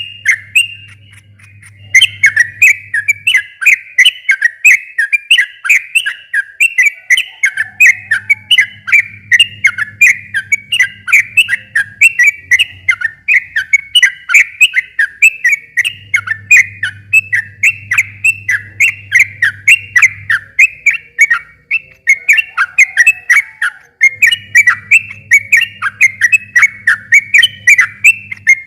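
Yellow-vented bulbul (trucukan) singing a long, fast run of chattering, bubbling notes, many per second, with a brief pause just after the start.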